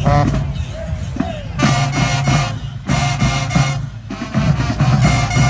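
Marching band music: the brass play loud, held chords in three blasts about a second long, over drums and a steady bass.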